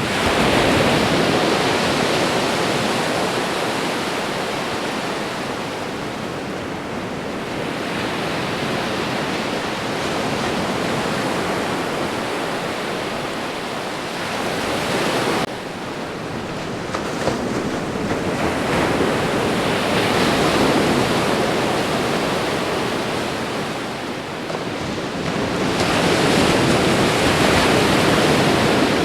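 Ocean waves breaking and washing on a shore: a continuous rush of surf that swells and ebbs every several seconds, with louder surges near the start, around 20 s and near the end. About halfway through, the sound drops off abruptly, as at an edit in the recording.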